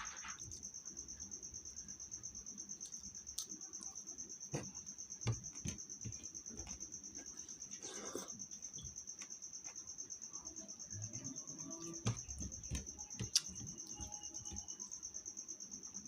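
Cricket trilling steadily at a high pitch, with scattered light clicks and knocks.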